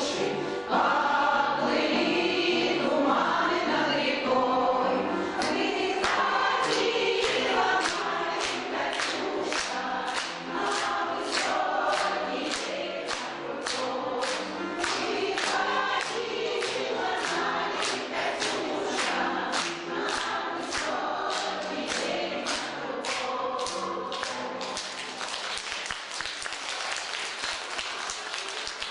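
Women's choir singing while hands clap in time, about two claps a second, as the song goes on. Near the end the singing stops and gives way to applause.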